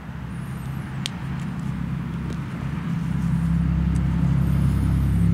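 A motor vehicle's engine running nearby with a low steady hum, growing gradually louder as it approaches.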